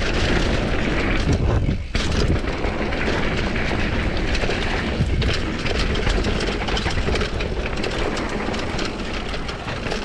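Wind buffeting an action camera's microphone while a Commencal Supreme DH downhill mountain bike is ridden at speed, its tyres rumbling over dirt and the bike rattling with many small clicks and knocks over rough ground.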